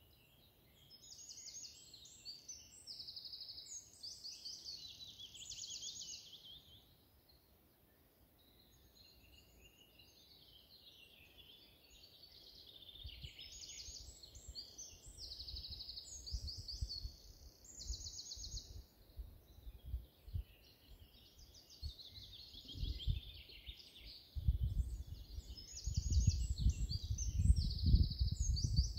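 A songbird singing bouts of short repeated phrases and trills. A low rumble, like wind on the microphone, comes in during the second half and is loudest over the last few seconds.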